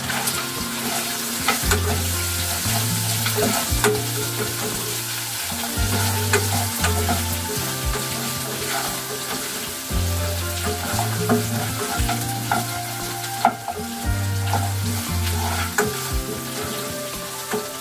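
Potatoes frying in oil in a pan, a steady sizzle with the repeated clicks and scrapes of a spoon stirring against the pan. Background music with a bass line runs underneath.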